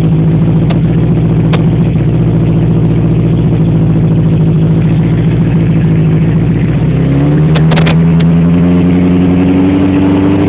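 Honda CB750 inline-four motorcycle engine running through a new carbon fiber muffler, idling steadily. About seven seconds in, the revs rise and keep climbing slowly, with a few light clicks near the same moment.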